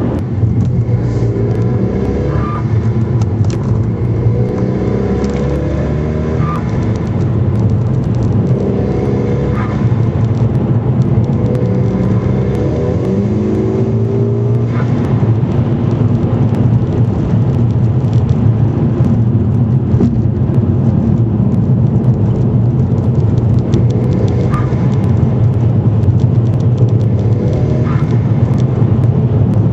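Turbocharged car engine running, its pitch rising and falling, with a short higher chirp every few seconds: the noise that began after a Forge diverter valve was fitted.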